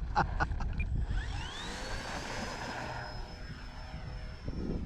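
Electric motors of a twin-motor RC cargo plane spooling up, with a whine that climbs in pitch about a second in and then holds steady. A quick run of clicks comes just before it.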